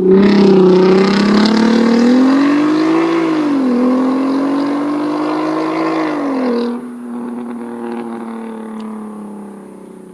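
Volkswagen Golf Mk5 R32's VR6 engine and exhaust under acceleration: the pitch rises, dips as it shifts gear about three and a half seconds in, and climbs again. About seven seconds in the throttle is lifted, the pitch drops and the sound dies away.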